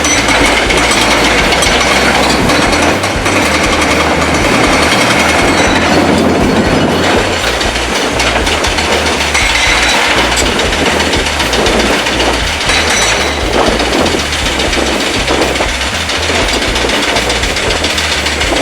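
Heavy construction machinery working: a loud, continuous clattering and rattling with many rapid knocks over the noise of a diesel engine.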